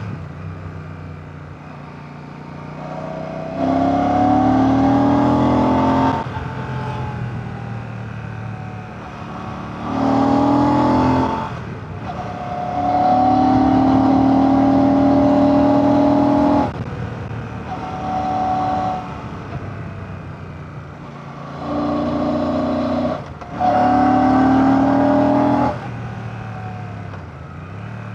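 Royal Enfield Classic 650's 648 cc air/oil-cooled parallel-twin engine and exhaust under way, opening up again and again: several louder pulls of a few seconds each in which the pitch climbs, with the sound falling back between them as the throttle closes.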